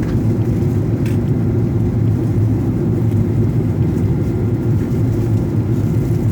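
Airliner cabin noise in flight: a steady low drone of the engines and the air rushing past the fuselage, heard from inside the cabin.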